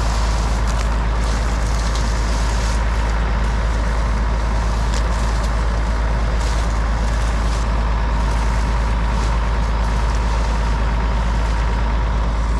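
John Deere 4400 combine's engine running steadily, a constant low rumble with a steady hum above it.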